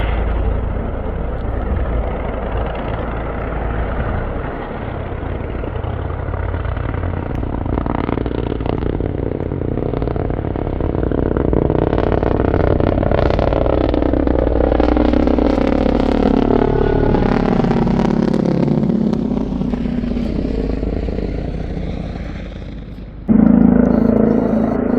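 Mountain rescue helicopter flying overhead, its rotor chop and turbine heard through a mobile phone microphone. A rhythmic blade beat and falling pitch glides come through in the middle. The sound breaks off abruptly about 23 seconds in and resumes with a steadier tone.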